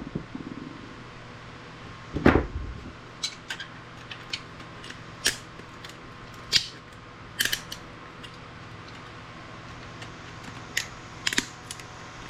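Hand tools working on scrap circuit boards, prying and snipping components off: irregular sharp clicks and snaps, with the loudest one about two seconds in, over a faint steady hum.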